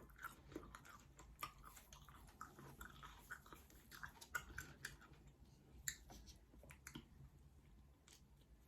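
A person chewing food close to the microphone, with many quick crisp crackles that come thick and fast for about five seconds and then thin out.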